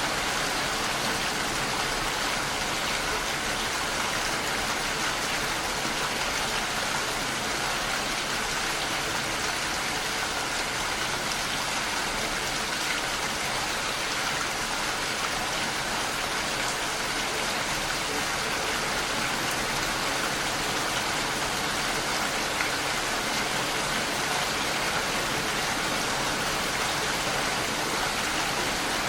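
Steady, unbroken rain falling, an even hiss of drops.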